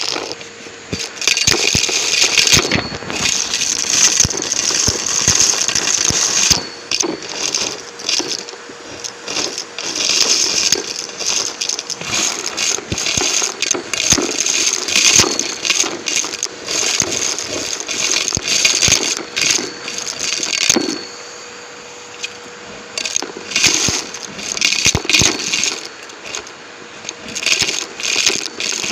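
A Numatic James vacuum cleaner with a microphone on it, running and sucking up crunchy debris. The debris goes through in uneven spells of crackling and rattling with many sharp clicks, over a faint steady motor tone.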